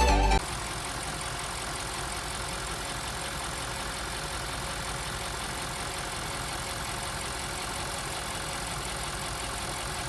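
Audi S7's 4.0 TFSI twin-turbo V8 idling steadily, on a car with a failed turbocharger and loss of power.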